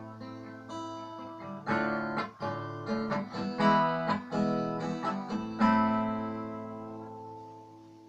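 Acoustic guitar playing the closing chords of a song: a few strummed chords, then a last chord left to ring out and slowly fade.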